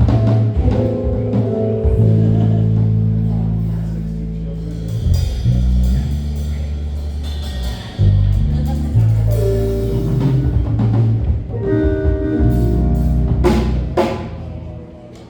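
Live band music: a drum kit with sustained deep bass notes, winding down near the end.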